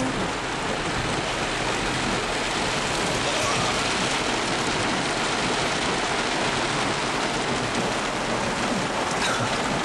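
Heavy rain beating on a car's roof and windshield, heard from inside the cabin as a steady hiss.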